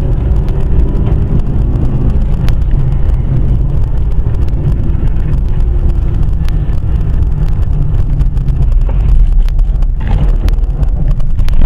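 Steady low rumble of a moving car's engine and road noise, picked up by a dashcam, with scattered light clicks.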